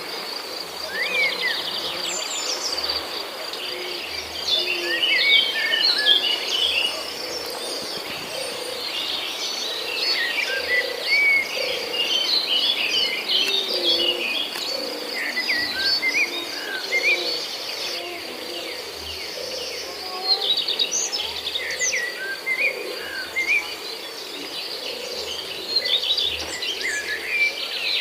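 Many small aviary birds chirping and calling at once: dense, overlapping short high chirps and trills, over a steady high-pitched ringing tone.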